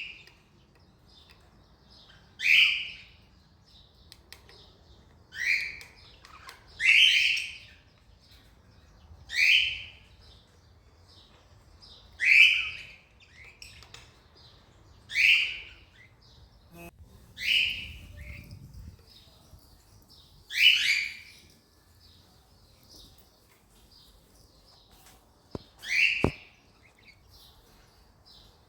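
Cockatiel giving short, loud calls over and over, about nine in all, one every two to three seconds, with a pause of several seconds before the last call.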